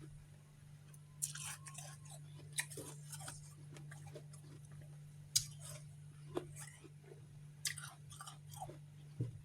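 Mouth crunching and chewing refrozen freezer frost chunks close to the microphone: sharp icy crunches every second or so with quieter crackling chews between.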